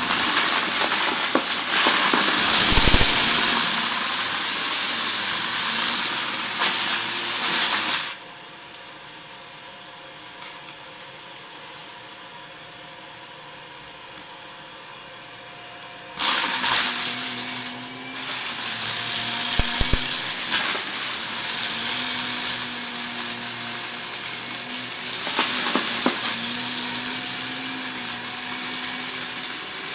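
Vacuum cleaner running with a loud, steady rush of suction noise that cuts off abruptly about eight seconds in and starts again about eight seconds later.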